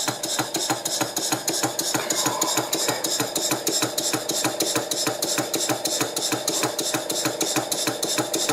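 Stuart Victorian mill engine, a model stationary engine, running on compressed air with an even exhaust beat of about five strokes a second. It has a slight clunk that the owner puts down to a bit of play at the end of the shaft where the nut goes through.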